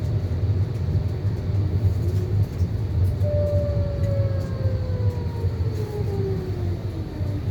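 Tram running with a steady low rumble. About three seconds in, an electric motor whine sets in and falls steadily in pitch.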